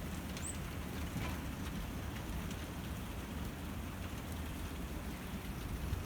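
Graupel pellets and rain falling and ticking on surfaces in scattered faint clicks, over a steady low wind rumble on the microphone.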